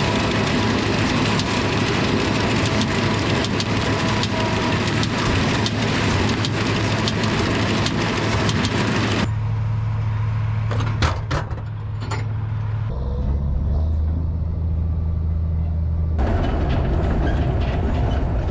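Tractor engines running steadily in the hay field, with machinery noise that stops abruptly about nine seconds in and comes back near the end. A few sharp clicks sound in the quieter middle part.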